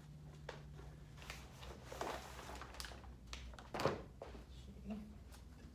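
Handling noises as a cricket bat is picked up and turned over: scattered light rustles and knocks, the loudest just before four seconds in, over a low steady hum.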